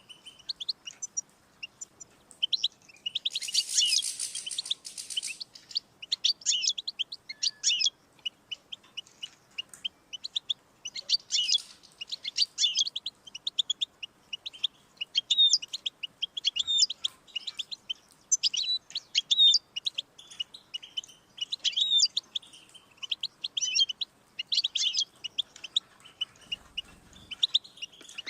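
European goldfinch singing: fast, twittering phrases with short pauses between them, and a harsh, rasping stretch a few seconds in.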